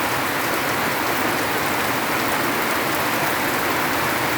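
Heavy rain falling steadily, a dense even patter of rain on surfaces.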